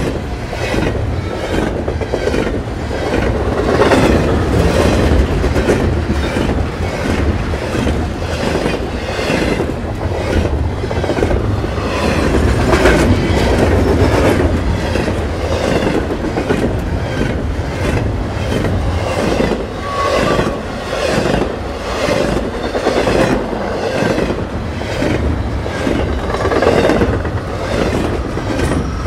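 Double-stack intermodal container train passing close at speed: a steady rumble and rush of the well cars, with a regular clickety-clack of the wheels.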